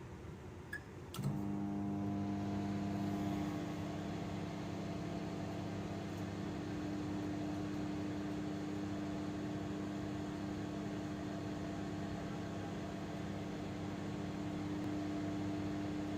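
Microwave oven starting up: a couple of clicks about a second in, then the steady hum of its transformer and fan as it begins a heating cycle.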